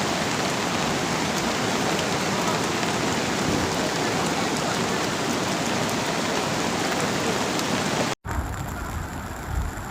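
Heavy rain pouring down, a dense steady hiss. A little past eight seconds it breaks off abruptly into a different recording that is duller and more rumbling.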